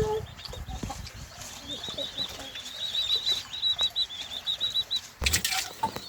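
A small bird twittering in a fast run of high, evenly repeated chirps. About five seconds in there is a brief loud rustle.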